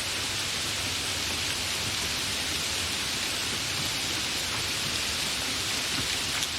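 Steady, fairly heavy rain falling without thunder: an even hiss of many drops with a few single drop ticks.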